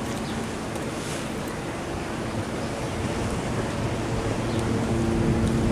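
Ocean surf washing along the shore with wind rushing over the microphone, slowly growing louder toward the end. A faint steady hum runs underneath.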